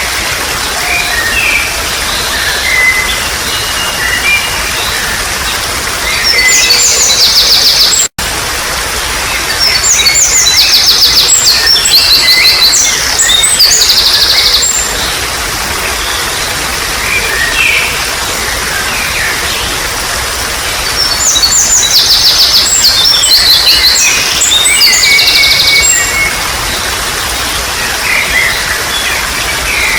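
Wild birds singing over a steady trickle of running water. Three long bouts of fast, repeated high notes stand out, with shorter chirps between them. The sound cuts out for an instant about eight seconds in.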